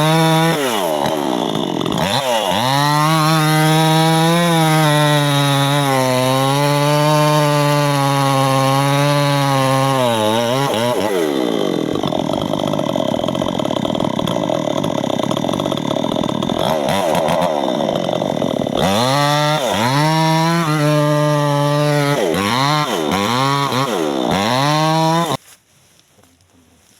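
Chainsaw at high revs cutting into a small suriyan tree, its engine note wavering and dipping under load. Near the end the revs drop and rise several times, then the engine cuts off suddenly.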